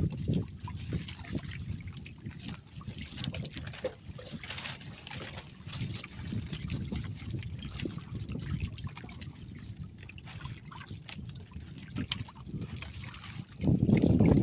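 Sea water trickling and lapping around a small fishing boat, with scattered small splashes and knocks, and a louder rush of noise starting near the end.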